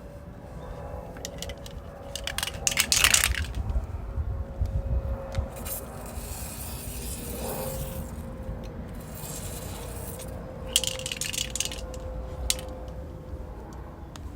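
Metal tools and parts clinking and rattling in short clusters, with a few scrapes and a brief hiss in the middle, over a faint steady hum.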